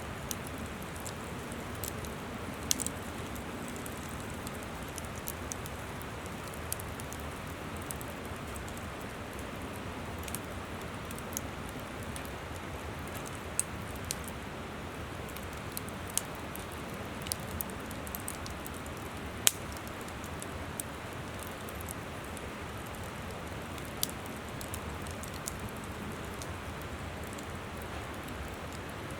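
Wood campfire crackling with scattered, irregular sharp pops, a few louder than the rest, over the steady rush of a flowing river.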